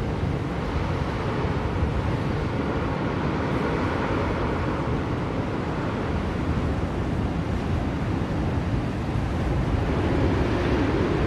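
Blizzard wind: a steady, dense rushing noise that swells slightly near the end.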